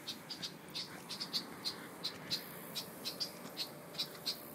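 A string of short, high chirps, several a second and irregularly spaced.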